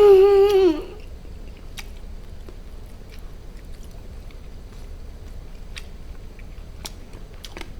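A man hums a loud, drawn-out 'mmm' of enjoyment over the first second, then chews roast duck quietly, with scattered small mouth clicks and smacks.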